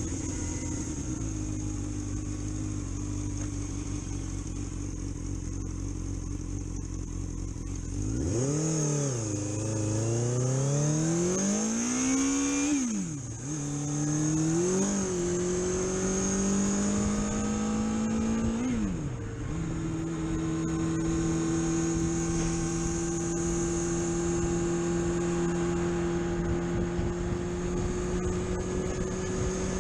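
Vehicle engine idling, then pulling away and revving up through two gear changes, each a quick drop in pitch, before settling into a steady cruise. A steady high-pitched whine runs underneath.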